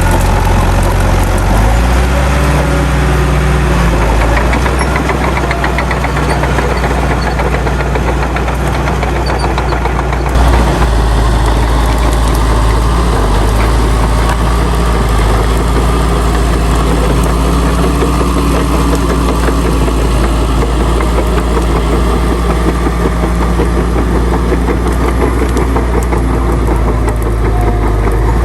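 Heavy diesel engine of earthmoving machinery running steadily under load, with an abrupt change in the sound about ten seconds in.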